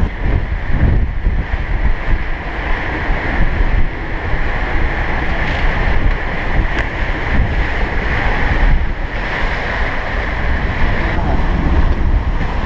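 Strong wind buffeting the microphone over the steady rush of waves along a sailing catamaran's hulls, in about 30 knots of wind and rough seas.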